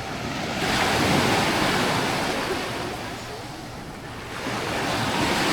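Small waves breaking and washing up the shore of a calm sea, one swell of surf about a second in and another building near the end.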